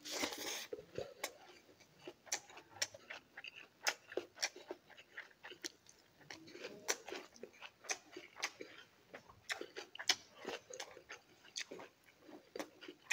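Close-miked eating of rice and fish curry by hand: wet chewing and lip smacking, a quick irregular run of sharp mouth clicks several times a second, with a brief denser rustle near the start as a handful goes into the mouth.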